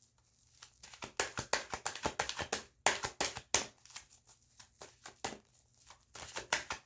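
A well-used tarot deck being shuffled by hand: a quick, irregular run of card flicks and slaps.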